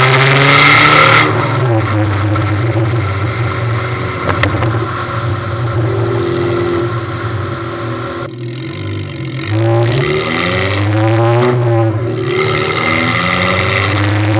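Ford Fiesta 1.6 engine barking out of a short stainless bonnet-exit exhaust, revving up and down several times. There is a brief lull about eight seconds in before the revs climb again.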